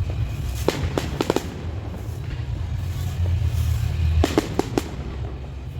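Fireworks going off: sharp bangs in two quick clusters, one about a second in and another about four seconds in, over a steady low rumble.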